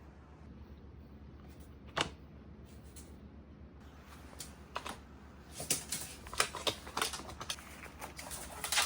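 Light clicks and taps: one sharp knock about two seconds in, then small irregular clicks that come more often toward the end.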